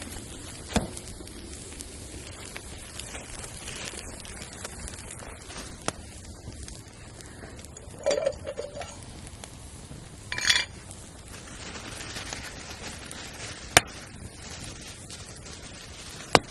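Metal camp cookware clinking and knocking a few times, one clink about halfway through ringing briefly, with a few sharp clicks and a steady background hiss.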